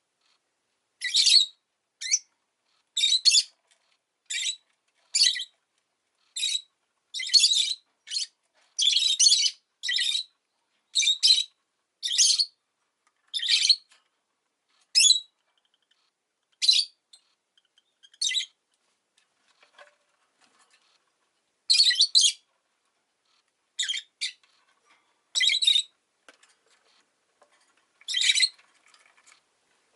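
Rosy-faced lovebird calling: a run of short, shrill chirps about one a second, growing sparser with longer gaps after about fifteen seconds.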